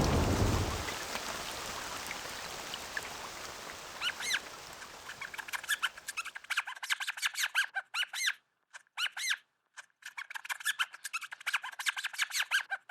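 Mouse squeaking: runs of short, high squeaks in quick bursts with brief gaps, starting about four seconds in. The tail of a rain sound fades out in the first second.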